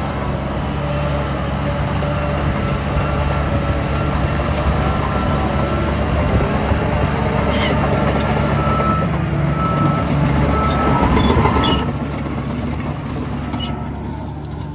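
Diesel engines of heavy earthmoving machinery running steadily, with scattered clanks. A rising whine starts about ten seconds in and cuts off suddenly about two seconds later, after which the sound drops a little.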